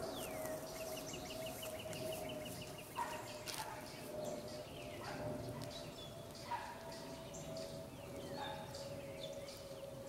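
Bird calls: a quick, even run of chirps, then several short calls that slide downward in pitch, over a steady low hum.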